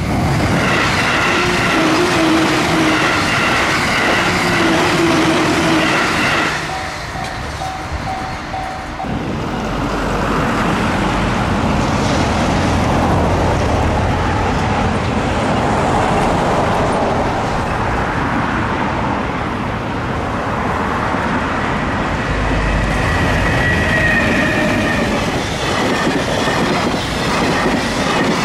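A Japanese level-crossing alarm rings with a repeating ding for about the first six seconds, fading after the cut. Then an EH500 electric freight locomotive approaches and its long train of container wagons rolls past, the rumble building to a steady clatter of wheels on the rails.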